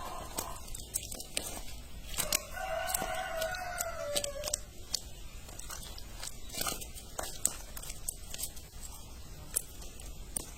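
A rooster crowing once, a pitched call of about two seconds that falls slightly at the end, starting a couple of seconds in, with scattered sharp clicks throughout.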